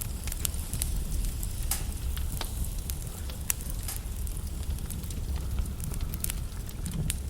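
Burning logs in a fireplace crackling, with irregular sharp pops over a steady low rumble of the flames.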